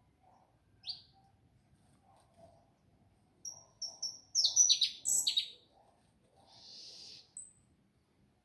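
Small songbirds in an aviary chirping: scattered short high calls, with a quick run of loud chirps about halfway through, followed by a short hissing rasp.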